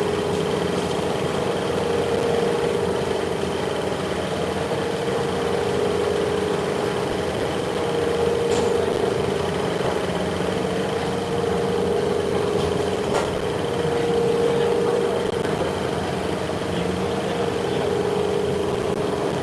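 Steady hum of running workshop machinery, with a few faint clicks.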